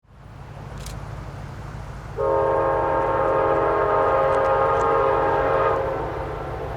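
Locomotive air horn sounding one long blast of several notes at once, starting about two seconds in and fading out near the end, over a steady low rumble of a passing train.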